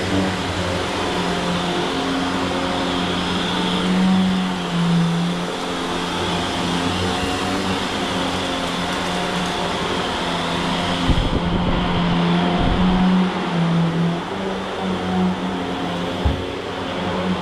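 Shark Stratos XL Pet Pro upright vacuum cleaner running steadily while being pushed over the floor, its motor hum dipping and rising a little in pitch. A few low knocks come in the second half.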